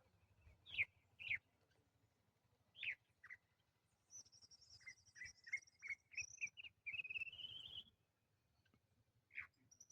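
Songbirds calling: a few short, sharp down-slurred calls, then about four seconds of song with a high trill over a run of lower notes that climb in pitch, and one more down-slurred call near the end.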